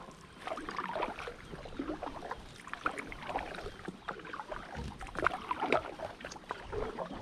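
Paddling an Itiwit X100+ inflatable drop-stitch kayak: the paddle blades dip and splash in the water with dripping, as an uneven run of small splashes.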